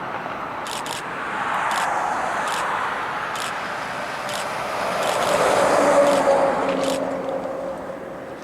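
Vehicles passing by: a rushing noise that swells twice, the second pass louder and carrying a steady hum before fading near the end.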